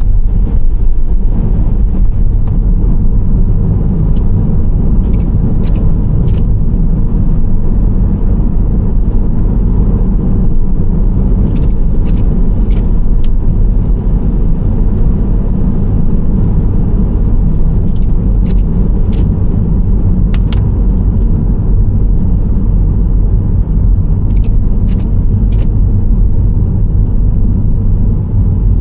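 Nissan Serena C25 minivan driving at speed, a steady low rumble of engine and tyre noise. Short sharp clicks come in small clusters every few seconds.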